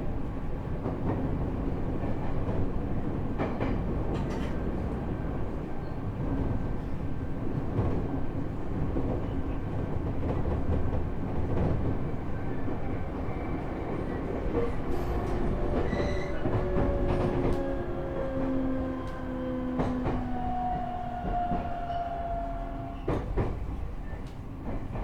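Inside a JR East E127-series electric train car, KuMoHa E127-11: running rumble and rail-joint clicks, then from about fifteen seconds in the Toyo Denki GTO-VVVF inverter and traction-motor gear whine falling slowly in pitch, several tones at once, as the train brakes to a stop. This car is a known odd-sounding one whose gear whine carries an extra tone a semitone above the usual one.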